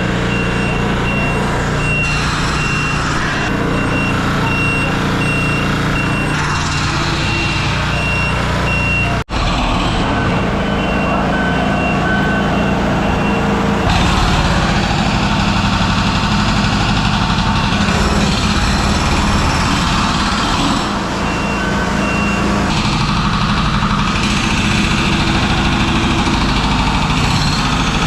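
Loud heavy diesel machinery running steadily: a dump truck engine with construction equipment working close by. A backup alarm beeps repeatedly through the first third and again in short runs later. The sound cuts out for an instant about nine seconds in.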